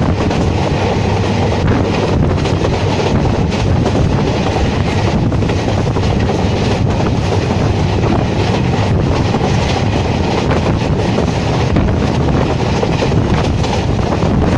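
Passenger train running at speed, heard from an open carriage doorway: a steady loud rumble of wheels on the track with scattered clicks from the rail joints, and wind rushing past the microphone.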